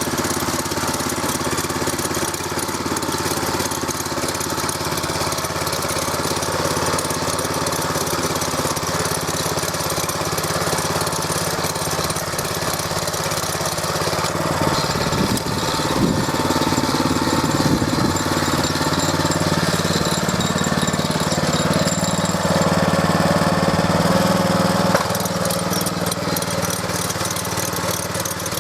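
Walk-behind tractor's 200 cc Champion single-cylinder four-stroke engine running steadily under load as its cutters till unbroken ground. Its pitch rises in the second half and drops back shortly before the end.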